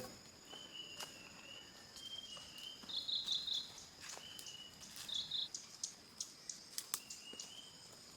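Outdoor insect drone: a steady high-pitched buzz, with chirping calls that come and go, a few short trilled bursts, and scattered light clicks.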